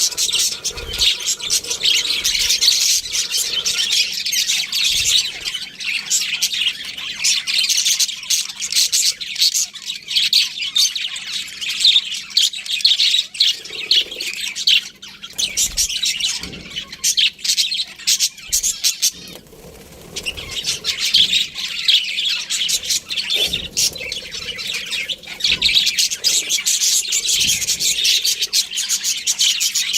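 Several budgerigars chirping and chattering, a dense stream of quick high chirps and squawks, with a brief lull about two-thirds of the way in.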